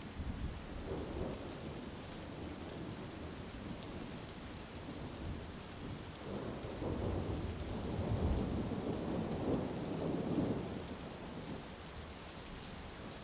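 Heavy rain falling steadily, with a long rolling rumble of thunder that swells about six seconds in and dies away a few seconds later.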